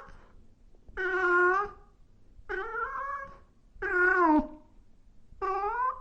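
Domestic cat meowing repeatedly: four drawn-out meows, each under a second long, about one and a half seconds apart. The third drops in pitch at its end.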